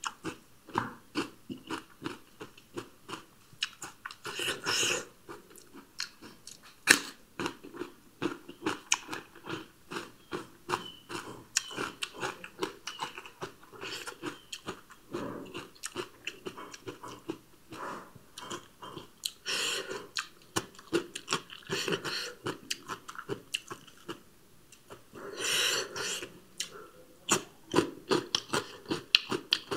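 Close-up crunching and chewing of raw cucumber and radish slices: a quick, irregular run of crisp, wet crunches, with a few louder stretches about five seconds in, near twenty seconds and near twenty-six seconds.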